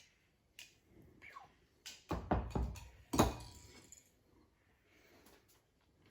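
Kitchen handling noises as a weighting bowl and a vacuum-sealed brisket are taken out of a sous vide water bath: a few light clicks, then two loud thumps about two and three seconds in.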